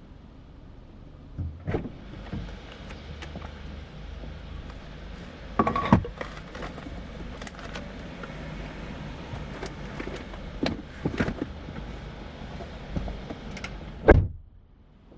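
A low steady rumble with scattered knocks and clatters, as of things being handled; the rumble drops away suddenly near the end.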